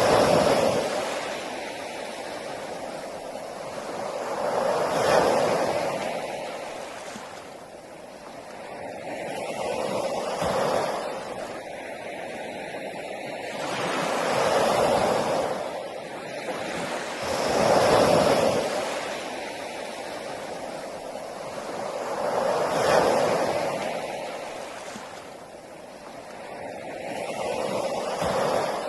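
Sea waves breaking on a beach and washing back, each wave swelling and fading, about one every four to five seconds, over a constant hiss of surf.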